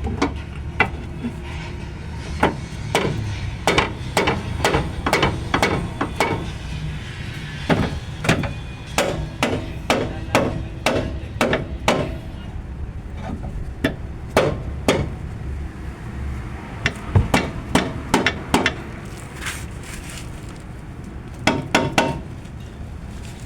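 Hammer striking steel car suspension parts again and again, in uneven runs of sharp blows, some with a short metallic ring, with a few pauses between the runs.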